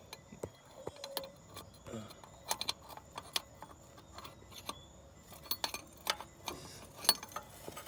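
Irregular metallic clicks and clinks of spanners and metal parts knocking together while working loose the nuts holding a tractor's fuel pump.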